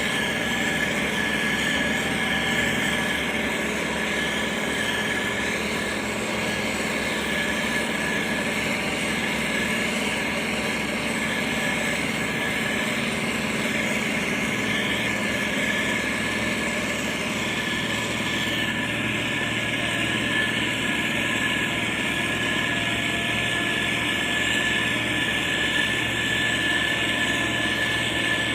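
Motor grader's diesel engine running steadily, with a steady high whine over the engine hum; about two-thirds of the way through the sound gets brighter and heavier, as if under more load.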